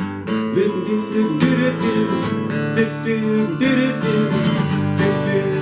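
Instrumental break of a peppy song: acoustic guitar strummed in a steady rhythm, with a bending melody line over the strums.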